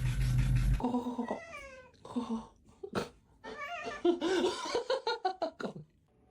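Domestic cat meowing and yowling: drawn-out calls that fall in pitch, then a run of short, quick calls near the end, after a brief burst of noise at the start.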